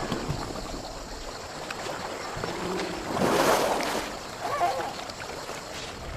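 Asian elephants splashing in a river, over running water, with a louder surge of splashing about halfway through.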